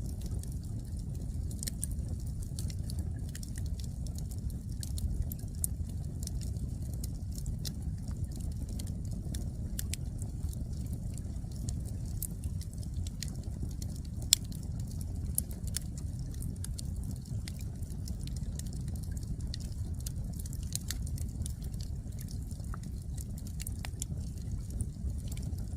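Firewood burning in an open fire, crackling with many small irregular snaps and a louder pop about halfway through, over a steady low rumble.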